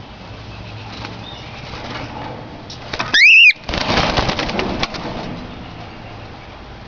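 Cockatiel giving one loud whistle that rises and then holds about three seconds in, followed by about a second and a half of rapid wing flapping and rustling.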